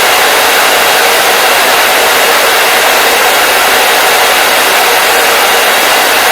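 Hair dryer running steadily: a loud, even blowing hiss, with little deep rumble.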